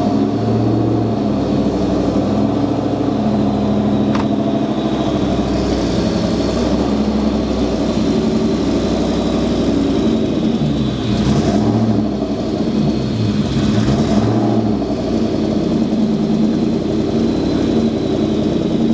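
Supercharged 4.6-litre V8 of a 2003–04 Mustang SVT Cobra idling, with a few small revs about ten to fifteen seconds in and a sharp click about four seconds in. The driver-side exhaust manifold is leaking where a stud has backed out.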